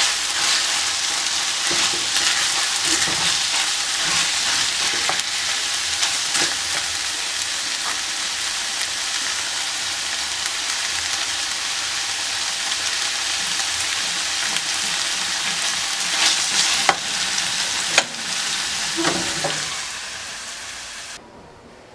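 Food sizzling as it fries in hot oil in a pan, a steady hiss, with a utensil knocking against the pan a few times in the second half; the sizzle cuts off abruptly shortly before the end.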